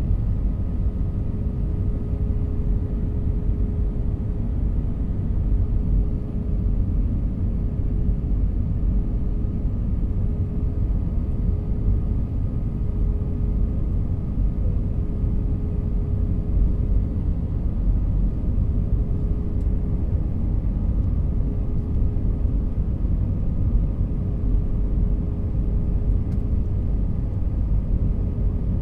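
Steady low rumble of an airliner's jet engines heard from inside the passenger cabin, with a steady hum under it and no change in level.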